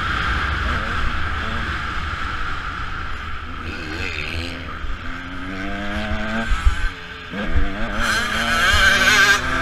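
Motocross dirt bike engine revving up and down under throttle, with steady wind noise. The engine note climbs a little after halfway, drops off briefly, then picks up again, with a few dull thumps.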